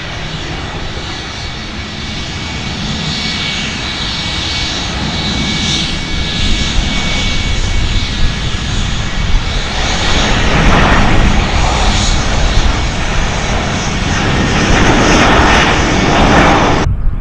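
Airplane engine noise that grows steadily louder, a steady whine over a deep rumble, and cuts off suddenly near the end.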